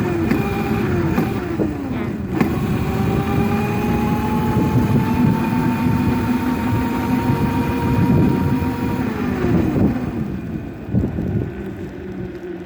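Dirt bike engine running while being ridden. Its pitch drops about two seconds in, then holds steady and slowly climbs. Near ten seconds it falls away and the sound gets quieter.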